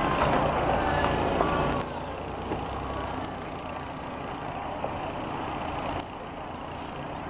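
School bus engines running in a demolition derby, louder for the first two seconds and then settling to a steadier level, with a few faint sharp knocks.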